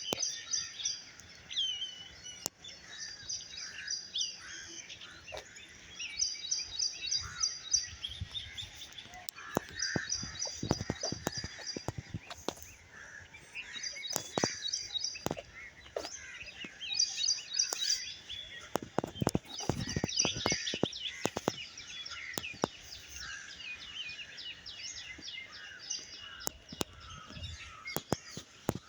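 Songbirds chirping and singing in a mixed chorus. One bird repeats a short, rapid, high trilled phrase every few seconds. Scattered soft low thumps run under it.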